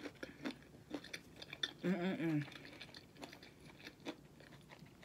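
A person chewing a mouthful of fried calamari, with many small crisp clicks of the breading, and a short hum from the voice about two seconds in.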